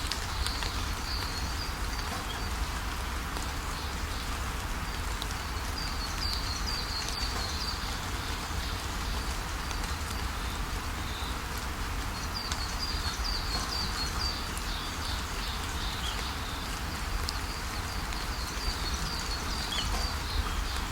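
Steady rain falling on leaves, with a songbird calling in short runs of quick high chirps that come back four times.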